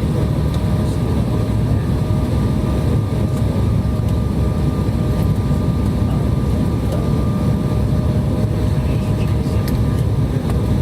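Steady jet airliner cabin noise heard from a window seat: a deep, even rumble of engines and airflow with a faint steady whine over it.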